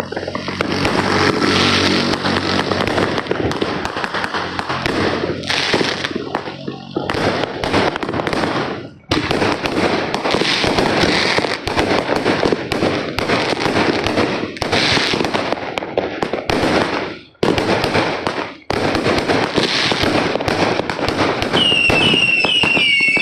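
Many consumer fireworks and firecrackers going off at once, a dense, nearly continuous crackling and banging with a few brief lulls. A warbling whistle falling in pitch comes in near the end.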